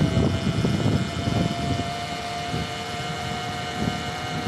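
Surron Ultra Bee electric motor whining under load up a steep hill on an empty battery. The whine is one steady tone that rises slowly, over an uneven low rumble.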